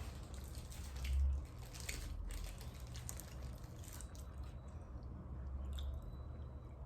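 Close-miked eating of a birria taco: bites and chewing with wet mouth clicks and crunches, and a low thump about a second in.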